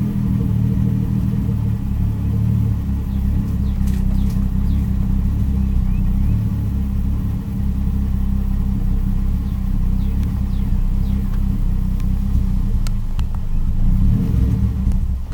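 Subaru EG33 3.3-litre flat-six engine running, swapped into a 1994 Impreza, with a brief drop in level about halfway through and a slight rise near the end. The engine hesitates and struggles to rev when the throttle is pressed, which the owner says sounds as if it isn't firing on all cylinders.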